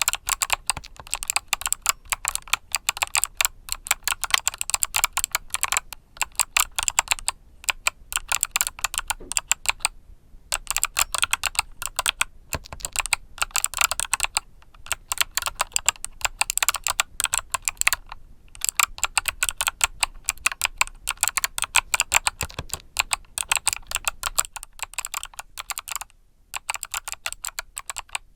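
Mechanical keyboard with Kailh Box Summer switches being typed on in fast, steady runs of key clicks, with a few brief pauses.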